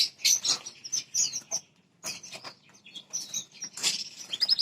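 Small songbirds giving rapid, high, short chirps, with a brief lull about two seconds in.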